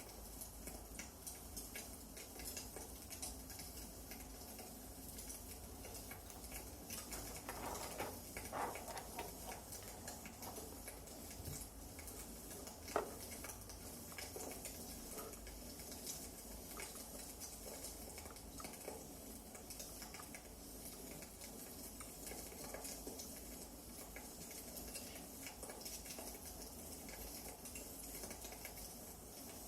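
Wood fire crackling with frequent small, irregular pops and snaps. A short clatter comes about eight seconds in and a single sharp, louder crack about thirteen seconds in.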